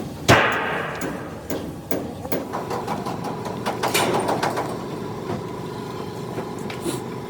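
Workshop noise: a loud bang with a ringing tail about a third of a second in, then irregular knocks and clatter over a steady hum.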